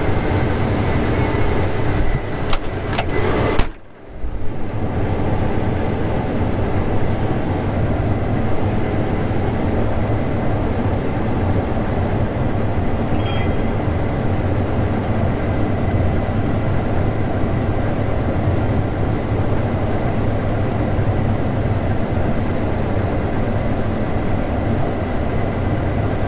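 Combine harvester running steadily while cutting wheat: a constant machine drone with a strong low hum. A few sharp clicks come about two and a half to three and a half seconds in, then the sound drops out briefly near four seconds before the drone resumes.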